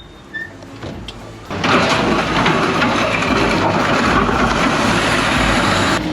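A vehicle engine running, coming in suddenly about a second and a half in with a steady rumble and a loud noisy hiss over it.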